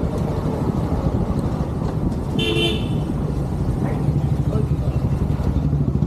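Motorcycle riding along a road, its engine and road noise running steadily. A short vehicle horn toot sounds about two and a half seconds in.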